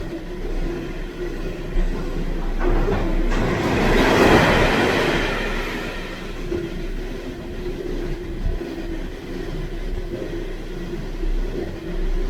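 Freight train running through the station, its wheels rolling on the rails with a steady low rumble and a rush of noise that swells about four seconds in and then eases off.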